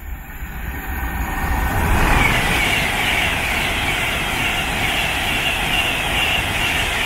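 Avanti West Coast Class 390 Pendolino electric train passing through the station at speed. Its rush and wheel-on-rail rumble build over the first two seconds, hold steady and loud, and fall away at the very end as the last coach goes by.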